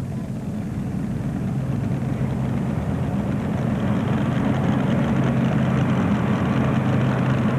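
A pulling vehicle's big engine running steadily in the arena between pulls, growing slowly louder.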